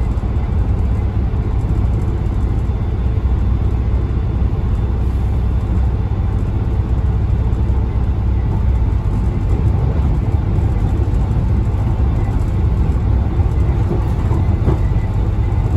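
Class 166 'Turbo' diesel multiple unit heard from inside the passenger saloon while running at speed: a steady, loud low rumble of wheels on the rails mixed with its underfloor six-cylinder turbo-diesel engine.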